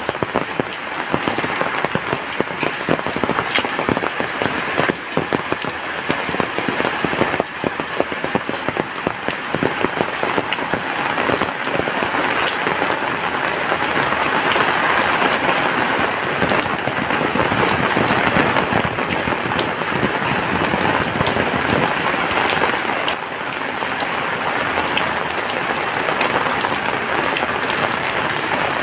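Heavy rain falling steadily, a dense hiss with many sharp individual drop hits. It builds a little in the middle and eases slightly about three-quarters of the way through.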